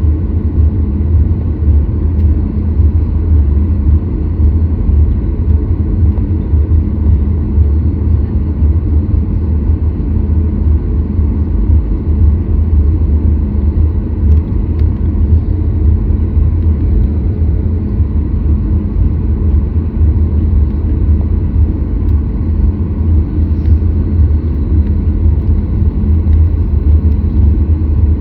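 Steady, loud low rumble of cabin noise inside a Boeing 737 MAX 8, from its CFM LEAP-1B jet engines.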